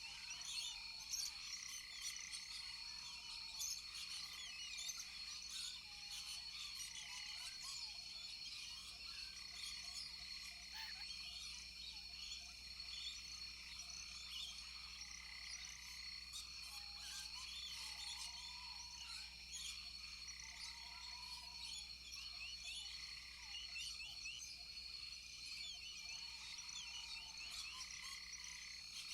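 Rainforest chorus of frogs calling over a steady high-pitched insect drone, with one short call repeating every second or so and a few lower, arching calls now and then.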